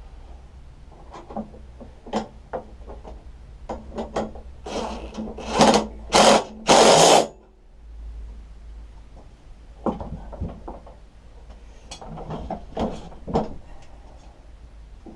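A power tool runs in four short bursts about halfway through. Clicks and knocks of metal parts being handled come before and after.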